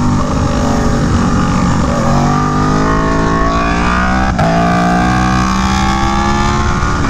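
Aprilia Tuono V4 1100 Factory's V4 engine through an SC Project CR-T exhaust, accelerating with rising pitch. It makes a quick clutchless upshift a little over four seconds in, where the pitch drops at once, then pulls again with rising pitch.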